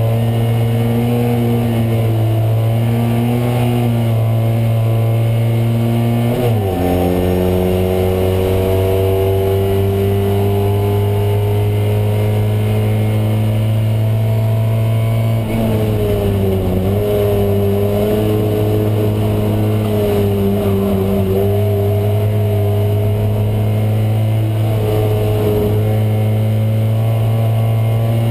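Fiat 126p race car's air-cooled two-cylinder engine running hard under racing load, heard from inside the cabin. About six and a half seconds in the revs break sharply, as at a gear change, then climb slowly for several seconds; around fifteen seconds in they dip and waver again before holding fairly steady.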